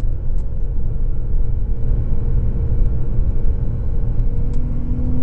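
In-cabin sound of a 2009 Porsche 997.2 Carrera 4S with PDK running at track speed: a heavy low rumble with the 3.8-litre flat-six's note running steady underneath. The engine tone rises in pitch near the end.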